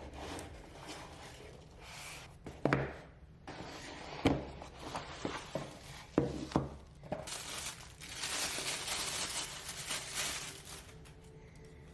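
Hands handling parts and packaging up close: scattered clicks and knocks of hard pieces being set down, the sharpest about three and four seconds in, then a few seconds of rustling.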